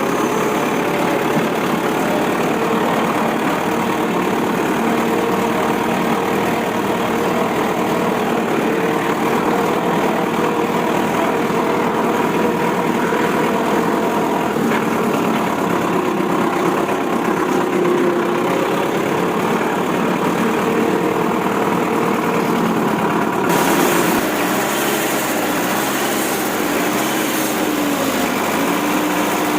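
Vehicle engine running steadily, its pitch wavering slightly; the sound changes abruptly about 23 seconds in.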